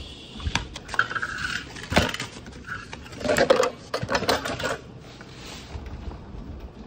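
Small metal parts and tools clinking and rattling as they are handled, a run of sharp clicks and clatters that dies down about five seconds in.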